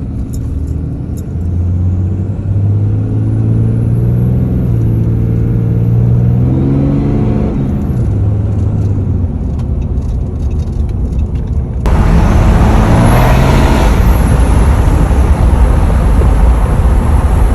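Ram 2500's 6.7 L Cummins turbo-diesel inline-six revving up over several seconds and dropping back to idle. About twelve seconds in a sudden, louder rushing noise cuts in over the engine, swelling and easing once.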